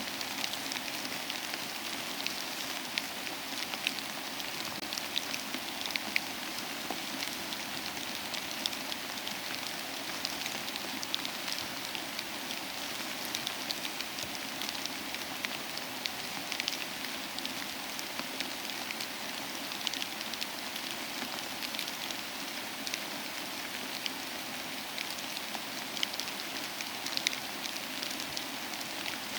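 Soft, steady rain mixed with a crackling fireplace. Scattered small pops and ticks sound over an even rain hiss.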